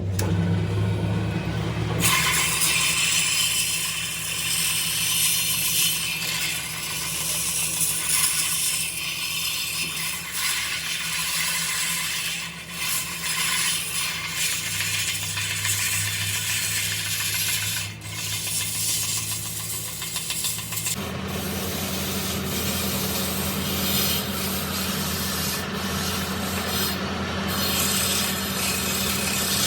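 Power grinding on the steel of a truck wheel rim: a continuous abrasive grinding noise over a steady motor hum, running on with a shift in its sound about two-thirds of the way through.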